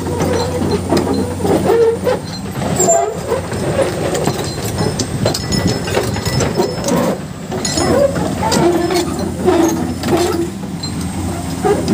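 Komatsu excavator at work: its diesel engine runs steadily under irregular metallic clanking and squeaking from the tracks and bucket.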